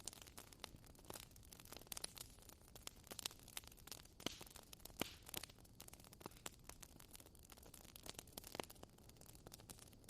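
Wood bonfire crackling: a steady scatter of irregular small pops and snaps, with a few louder pops about four, five and eight and a half seconds in.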